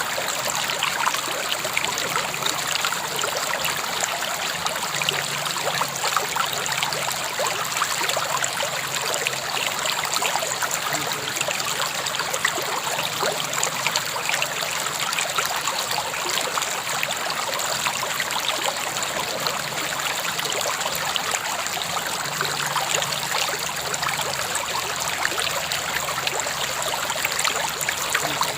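River water flowing steadily over stones, a continuous babbling and trickling rush with no change in level.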